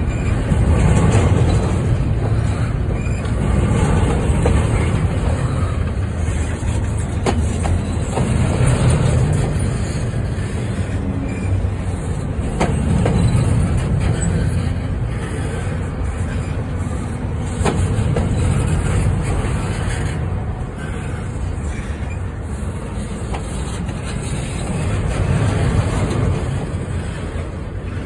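Double-stack container freight train rolling past close by: a steady rumble of steel wheels on the rails that swells and eases as the cars go by, with a few sharp clicks and clacks scattered through it.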